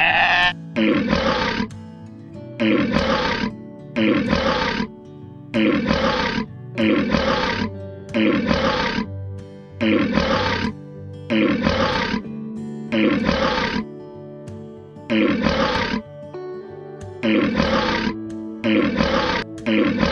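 A deep animal roar, the same short call repeated about once a second, each call falling in pitch, over background music with held chords.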